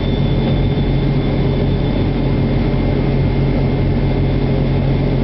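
Steady machine drone, like an engine running at a constant speed, with an even low hum and a few faint higher tones that do not change.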